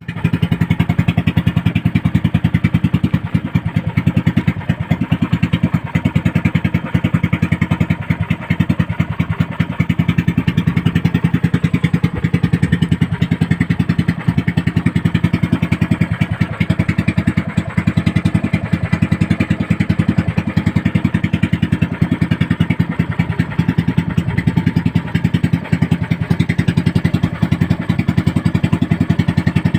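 Small motor boat engine running steadily at a constant speed, with a fast, even putter.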